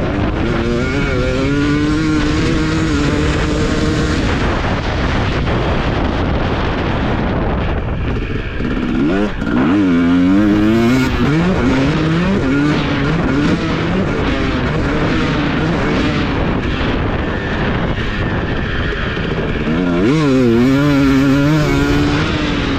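Husqvarna TC250 motocross bike engine revving hard up and down as it is ridden round the track, its pitch climbing and dropping sharply twice, over a steady rush of wind noise.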